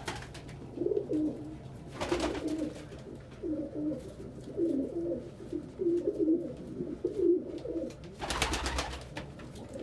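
Several domestic pigeons cooing over one another in a loft, with two brief rustling flurries, about two seconds in and a louder one near the end.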